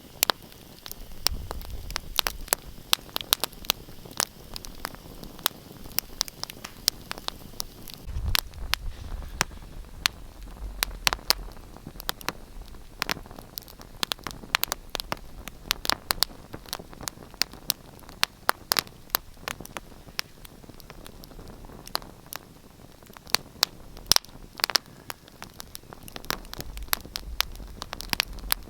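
Wood fire in a fireplace crackling: many sharp, irregular pops and snaps over a soft hiss. A low rumble from the flames swells a few times.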